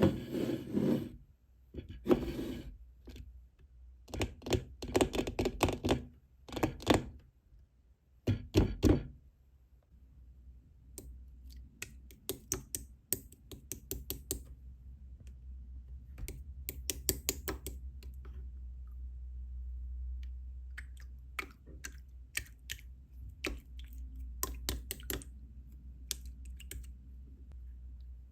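Slime being worked by hand, making bursts of quick, sharp clicking and popping, with a low steady hum underneath from about a third of the way in.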